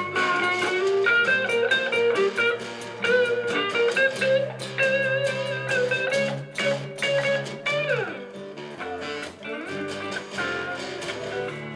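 Instrumental break of a live blues-tinged song: an electric guitar plays a lead line of held and bent notes over a strummed guitar and a rhythmic accompaniment. About eight seconds in, one note slides down in pitch.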